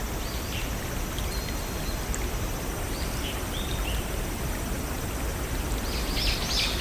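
Steady rushing of a small forest waterfall and stream, with short bird chirps over it: a few near the start, a couple about three seconds in, and a quick run of chirps near the end.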